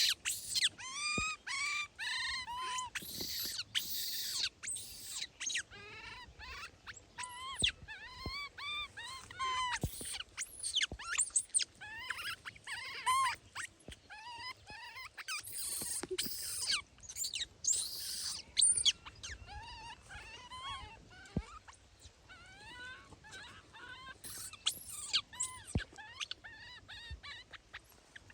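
Baby monkeys crying: many short, high-pitched squeals and whimpers in quick succession, with a few brief bursts of rustling noise.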